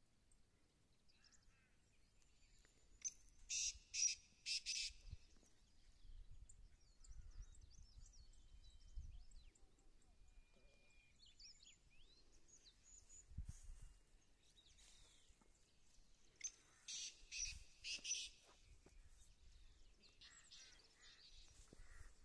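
Birds calling on a quiet hillside: two bursts of about four sharp, loud notes in quick succession, one about a sixth of the way in and one about three-quarters through, with faint high chirps of small birds in between.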